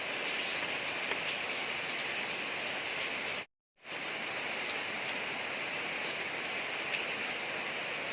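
Steady rain falling on a street: an even hiss of drops with faint scattered patters. It breaks off into silence for a moment about three and a half seconds in, then resumes.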